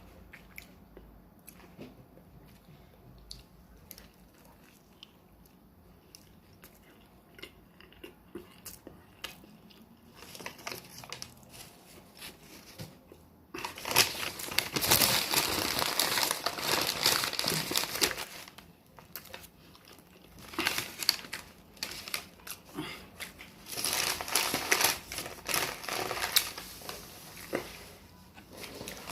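Paper or plastic wrapping being crumpled and crinkled by hand, with only a few faint clicks at first, then loud crinkling in long bursts from about halfway in until near the end.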